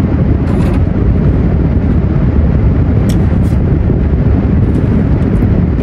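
Steady low rumble inside a car, typical of a car engine idling, with a couple of faint clicks about three seconds in.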